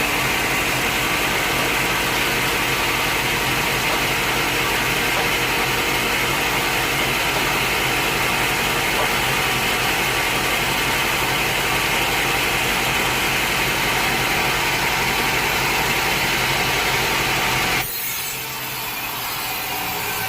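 A sawmill blade cutting steadily through a log, a loud even sawing noise. Near the end it drops suddenly to a quieter, different sound.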